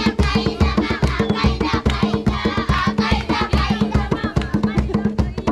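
Drumming and singing: a quick, steady drumbeat under voices singing a song.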